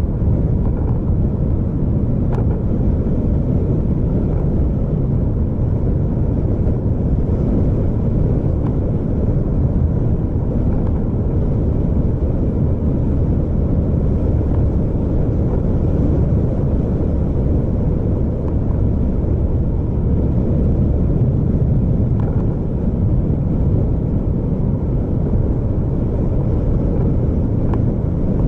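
Steady low rumble of a vehicle on the move: engine and road noise, with a few faint ticks.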